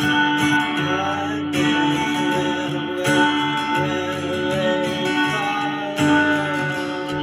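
Live band playing an improvised instrumental jam led by guitar, with held notes under a melody that slides slowly in pitch and a fresh strum about every second and a half.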